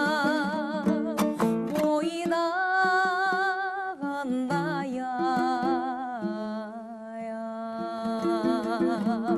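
A woman singing a slow Kazakh song in long held notes with vibrato, over plucked-string accompaniment.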